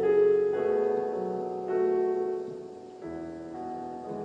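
Soft piano chords, each held and left to ring before the next is struck, about four in all.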